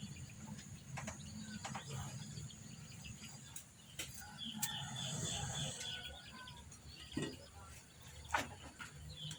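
A bird's quick chirping trill about halfway through, over a low steady hum, with a few sharp clicks and knocks scattered through.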